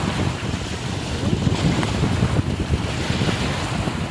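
Wind buffeting the microphone over waves washing in on a dam reservoir, a steady rough rumble without pause.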